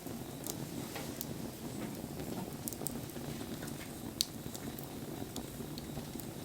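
Wood campfire burning, with scattered crackles and pops over a steady low hiss; one sharper pop about four seconds in.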